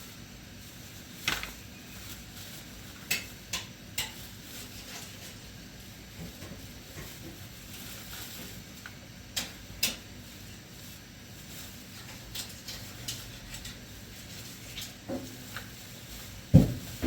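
Scattered light clicks and taps of hard objects being handled, a few at a time with pauses between, and a heavier thump near the end.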